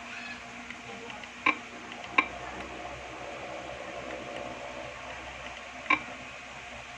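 Three sharp clicks, about 1.5, 2.2 and 6 seconds in, as a Wi-Fi password is typed letter by letter with the TV box remote on an on-screen keyboard, over a steady low hum and hiss.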